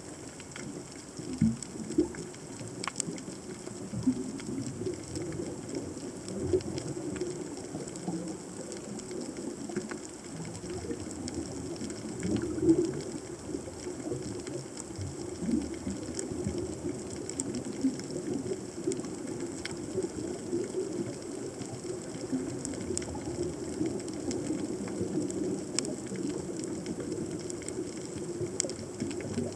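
Underwater ambience picked up by a camera left on the seabed: a steady, uneven low crackle and churn, with scattered sharp clicks, a few louder ones standing out, and a faint steady high whine.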